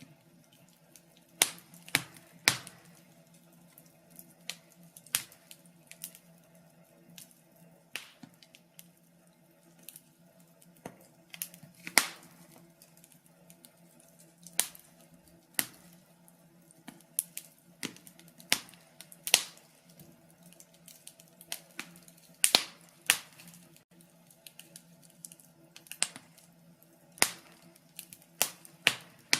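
Wood fire in a fireplace crackling: irregular sharp pops and snaps, roughly one or two a second, some much louder than others.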